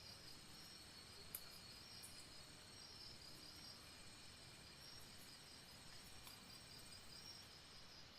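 Faint forest insects chirping steadily in high-pitched pulsing trills, with a single small click about a second in.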